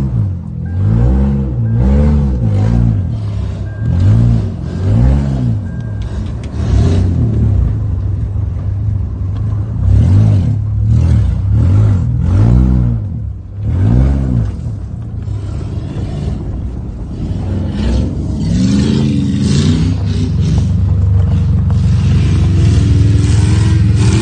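2003 GMC Sierra's 4.8-litre V8 through a straight-piped exhaust, revved again and again in sharp rises and falls, then held at higher, steadier revs near the end.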